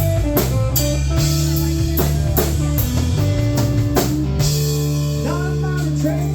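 Live rock band playing an instrumental passage: guitar over a steady drum kit beat, with no singing.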